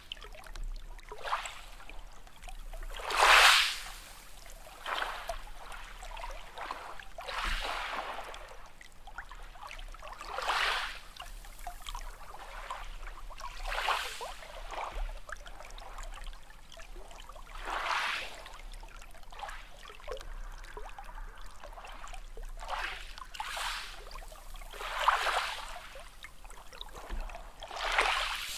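Sea waves washing in, one swell every three to four seconds, the loudest about three seconds in.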